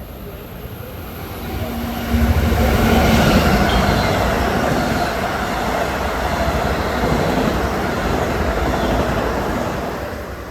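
Long Island Rail Road commuter train passing by. The rumble and rush of the cars build up about two seconds in, hold loud for several seconds, then die away near the end.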